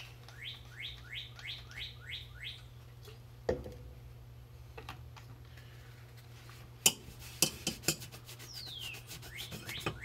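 A songbird singing: a falling whistle followed by a quick run of rising whistles, about three a second, at the start and again near the end. In between come a knock about three and a half seconds in and a cluster of sharp clicks and taps a little before the end, the loudest sounds, over a steady low hum.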